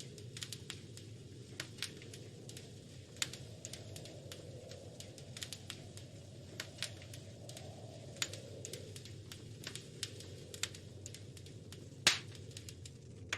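Wood fire crackling in a fireplace: irregular sharp pops and snaps over a low steady rush, with one loudest pop near the end.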